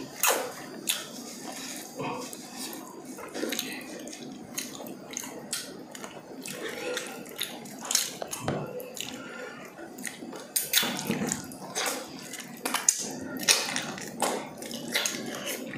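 Close-up eating sounds of two people gnawing saucy pork ribs off the bone: irregular wet lip smacks, sucking and chewing clicks.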